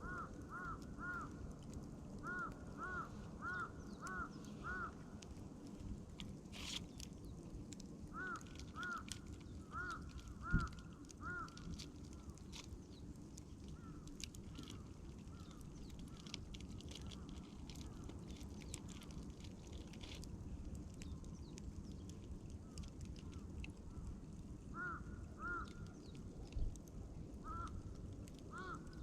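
A campfire crackles with scattered small pops over a steady low rumble, while a bird calls in short runs of quick notes that rise and fall, several times over. A single sharp knock comes about ten seconds in.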